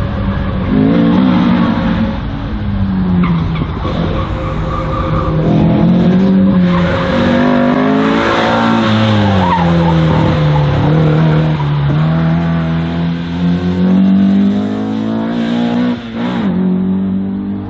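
A race car's engine revving up and down as it is driven hard through a slalom course, the pitch rising and falling repeatedly with brief tyre squeal.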